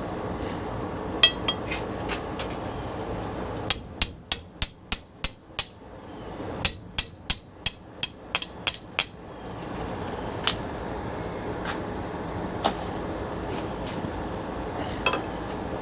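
Hammer blows on metal: two quick runs of about eight sharp, ringing strikes each, roughly three a second, with a short pause between them. A few lighter clinks come before and after.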